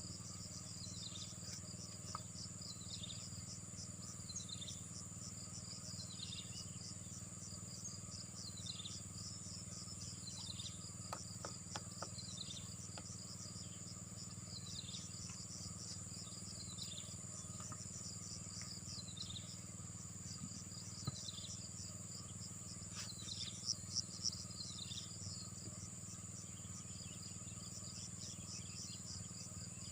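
Insects trilling steadily in a high, dense chorus, with a short falling call repeating about every second and a half. There are a few light clicks about halfway through and again near the end.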